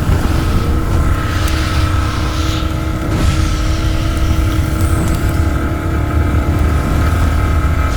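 An engine running steadily under a loud low rumble, with a constant hum.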